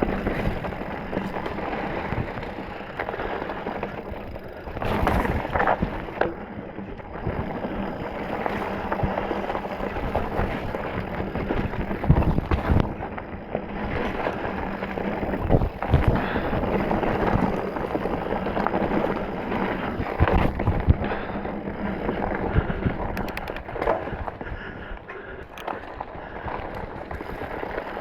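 Mountain bike riding over a rocky, rooty trail: steady tyre noise with frequent knocks and clatters of the bike over rocks and roots.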